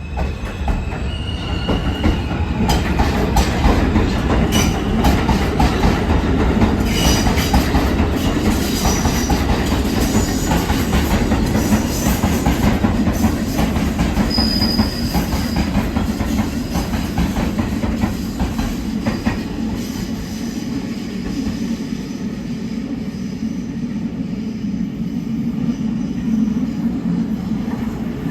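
R160 subway train running through the station, its wheels clacking over rail joints, with a few short high wheel squeals in the first half before the sound settles into a steady rumble.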